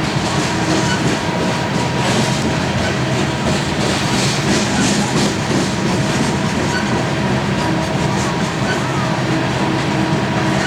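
Loaded coal train rolling past, its steel wheels clicking over rail joints, with a steady hum underneath.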